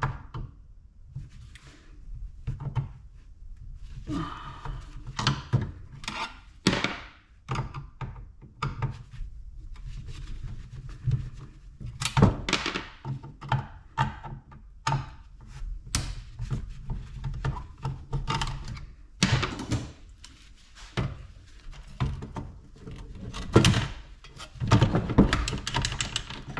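Irregular knocks, clicks and clatter of scrap being handled and taken apart by hand, with a steady low hum underneath.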